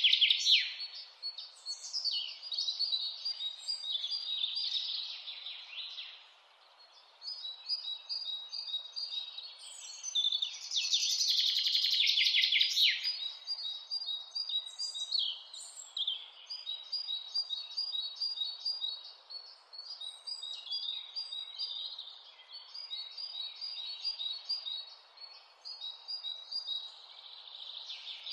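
Mountain birds singing: many short, quickly repeated chirps and trills from several birds, densest near the start and again around the middle, over a faint steady hiss.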